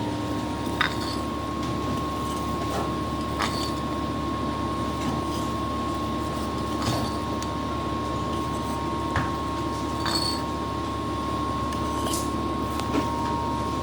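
A steady hum runs throughout, with occasional light clinks and taps of kitchen utensils against cookware.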